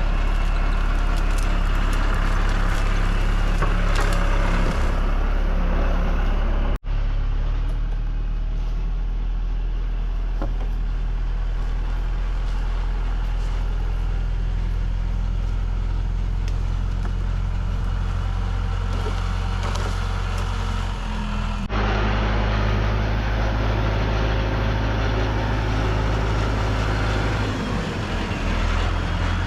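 Tractor engine running steadily under load, a deep even drone, with two abrupt breaks where the footage cuts, about seven seconds in and again past twenty seconds.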